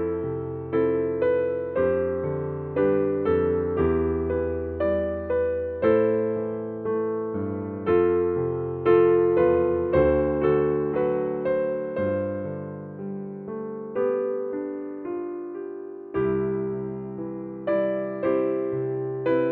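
Background piano music: slow, gentle chords and melody notes, each struck and left to fade.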